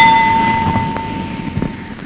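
Ship's bell ringing on after a strike just before, its tone fading away over about two seconds, over a low rumbling background with a few faint knocks.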